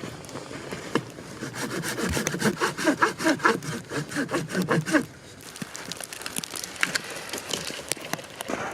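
Hand saw cutting through a small tree trunk in rapid back-and-forth strokes, loudest for about three seconds from around two seconds in, then stopping, with a few scattered wood clicks after.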